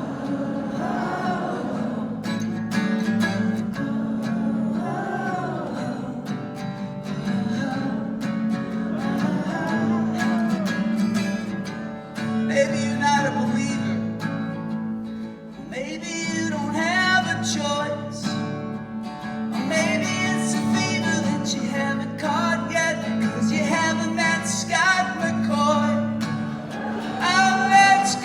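Acoustic guitar strummed with singing over it, in a live folk-rock performance.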